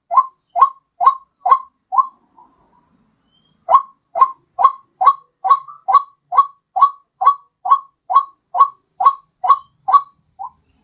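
White-breasted waterhen (ruak-ruak) calling, as played for a bird-luring recording: short, loud notes repeated about two a second. A run of five notes is followed by a pause of about a second and a half, then a longer run of about fifteen.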